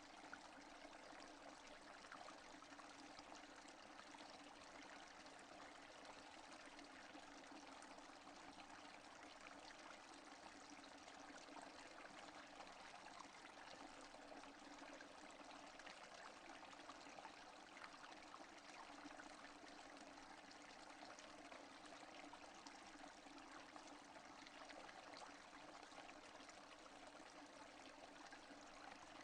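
Steady rainfall without thunder, faint and even, a continuous hiss of many small drops that does not change.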